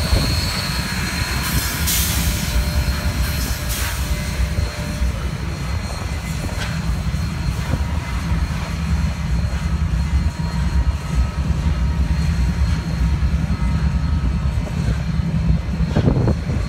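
A standing locomotive and train giving off a steady low mechanical rumble, with two short hisses in the first few seconds.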